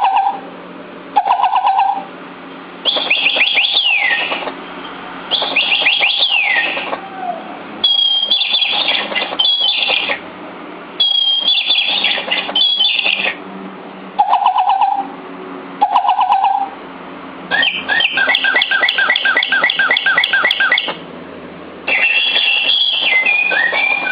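Electronic voice-control toy bird chirping in about ten separate bursts of quick tweets and falling whistles, each lasting up to a few seconds with short pauses between.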